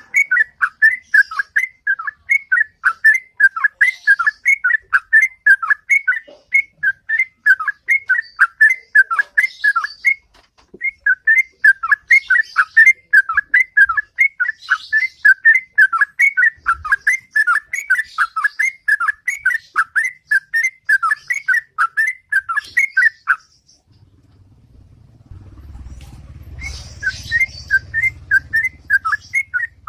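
Yellow-vented bulbul (trucukan) singing its ropel: a long, fast run of loud whistled notes, about four a second. The song breaks off for a few seconds near the end, where a low rumble is heard, then starts again.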